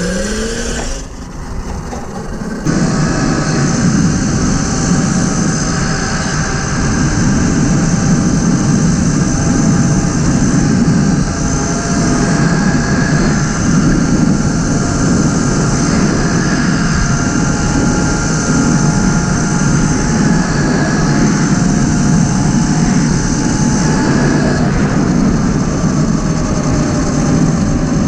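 Tuttio electric dirt bike, its controller tuned with a FAR Driver dongle, ridden at speed. The motor gives a steady high whine over loud wind and tyre rush. The whine rises briefly at the start and falls away near the end as the bike slows.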